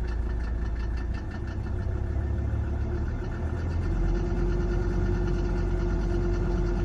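Mercedes-Benz 300D diesel engine running steadily at idle, making strange noises after its timing was set to the factory-manual 14 degrees. About four seconds in, the low rumble shifts and a steady tone above it grows louder.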